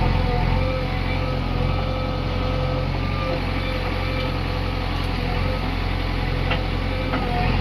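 Heavy diesel engine running steadily under a faint, steady high whine, with a few sharp knocks near the end.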